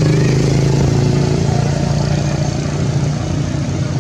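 A motor vehicle engine running, a steady rapid-pulsing hum that slowly fades and drops a little in pitch toward the end.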